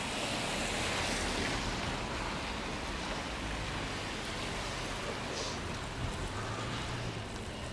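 Steady hiss of heavy rain and bicycle tyres on a soaking wet road while riding.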